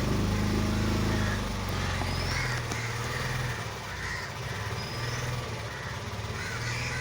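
Motorboat engine running steadily, with crows cawing several times over it and a couple of short high bird chirps.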